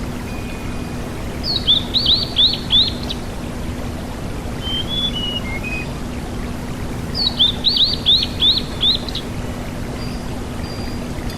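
Sulingan gunung (tledekan gunung) songbird singing: two short phrases of about six rapid, clear whistled notes, one about a second and a half in and one about seven seconds in, with a few softer, lower notes between them. A steady hiss and a low hum run underneath.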